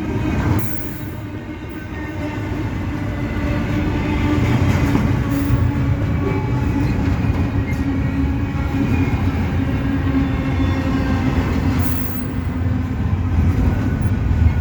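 Short CSX intermodal freight train rolling past slowly as it slows down: a steady low rumble with a steady hum, getting louder about four seconds in.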